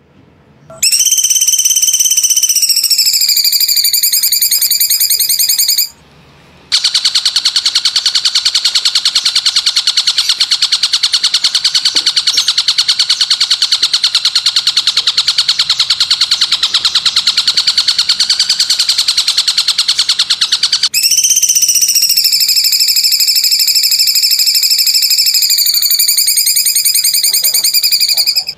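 Bird-tutor recording of very high, rapid pulsing trill calls in three long stretches with short gaps. The first and last stretches dip and rise slightly in pitch; the middle one holds steady for about fourteen seconds.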